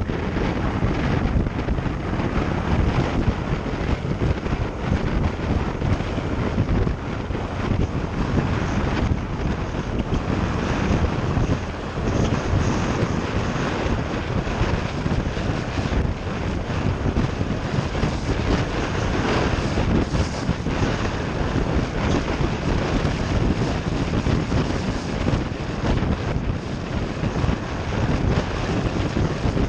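A moving motorcycle with steady wind rush and buffeting on the microphone, over the bike's engine and road noise.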